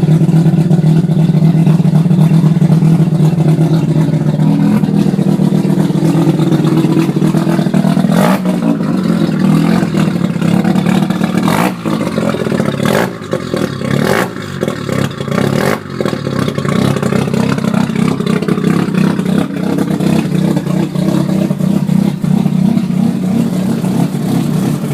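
1987 Mazda RX-7 Turbo II's turbocharged 13B twin-rotor rotary engine running through a 4-inch straight-pipe exhaust with no mufflers, just started up. About eight seconds in the running turns choppy and uneven, with several sharp cracks and dips, and then settles back to a steady, even sound for the rest of the time.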